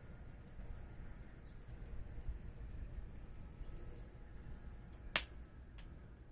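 Wood fire burning with light crackles, then one sharp, loud pop about five seconds in.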